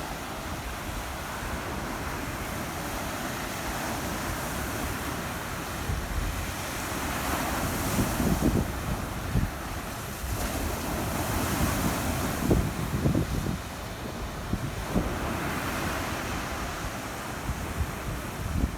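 Small waves washing on the shore of Long Island Sound in a steady hiss that swells every few seconds. Wind buffets the microphone in low rumbling gusts.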